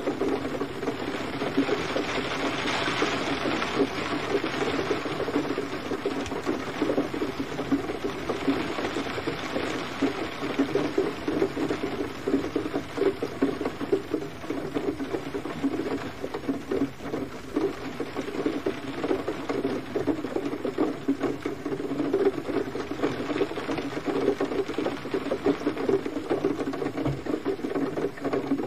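Steady gentle rain: a dense, even patter of drops that does not let up.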